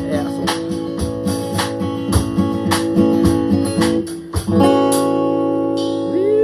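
Acoustic guitar strummed in a steady rhythm, about two strokes a second, then a chord left ringing from about four and a half seconds in.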